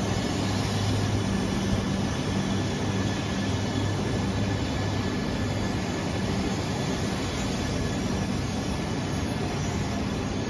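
E3-series Shinkansen cars, coupled to an E5, rolling slowly along the platform as the train draws to a stop: a steady rumble of wheels and running gear with a low hum, easing off slightly toward the end.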